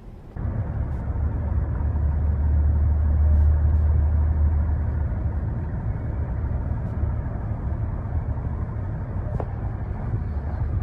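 Steady low rumble of a car driving, with road noise, starting abruptly about half a second in.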